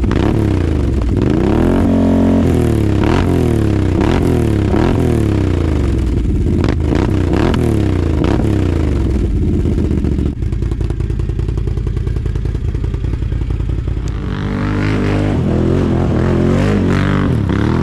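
Can-Am Outlander ATV engine revved through its exhaust in quick blips, each rising and falling in about a second, then settling to a steadier idle for a few seconds before a few more revs near the end.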